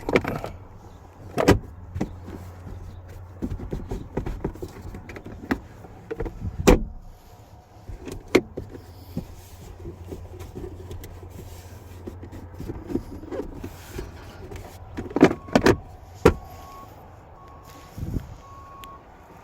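Clicks and knocks of parts being handled inside a pickup's cab, with a low steady hum during the first several seconds.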